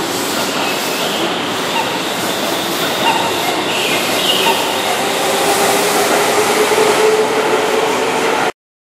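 Keihan electric commuter train running along the platform, a steady rumble of wheels and running gear with a motor whine that climbs slowly in pitch as it picks up speed. The sound cuts off suddenly near the end.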